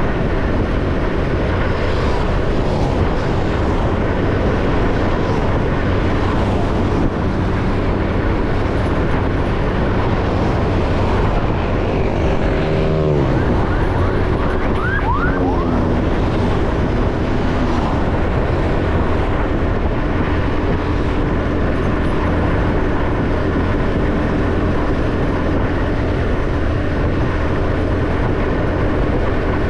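Motorcycle engine running under way, over a steady rumble of wind and road noise. About twelve seconds in, the engine note drops as the bike slows, then rises again as it picks up speed.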